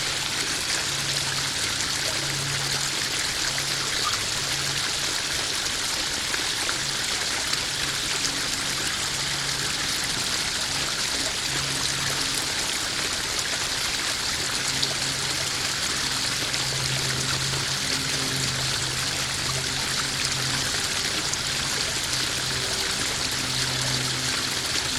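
Small garden waterfall splashing and trickling steadily into a koi pond, with a faint low hum that comes and goes underneath.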